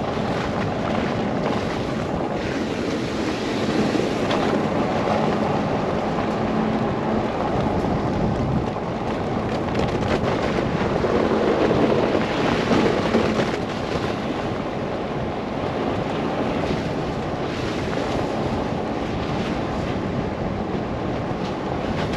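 Steady rush of wind and road noise from a car driving through a snow blizzard, with a low steady hum underneath; the rush swells briefly about halfway through.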